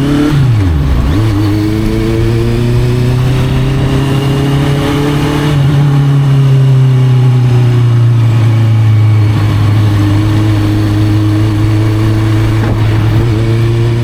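Honda CB650F's inline-four engine through an Arrow aftermarket exhaust, under way. The revs dip sharply and pick back up about a second in, then hold a steady, fairly constant pitch.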